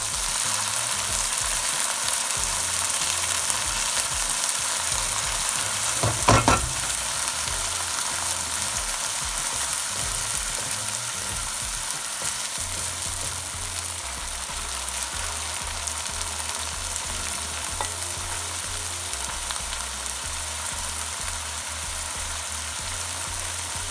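Spice paste frying in hot oil in a pan: a steady sizzle, with one short knock about six seconds in.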